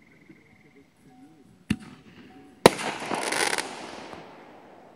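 Fireworks: a sharp bang about a second and a half in, then a louder bang about a second later followed by a burst of crackling that fades out over a second or two.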